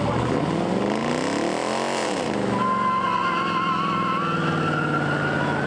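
Car engine revving, rising and falling in pitch about a second or two in, then held, with a high thin squeal coming in about two and a half seconds in.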